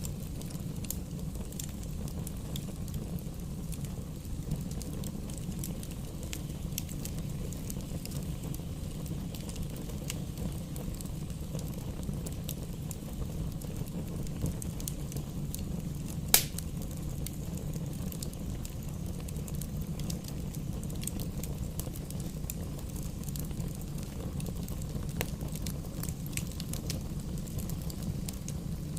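Wood fire burning in a fireplace: a steady low rumble of flames with scattered crackles of burning logs, and one sharp, loud pop about halfway through.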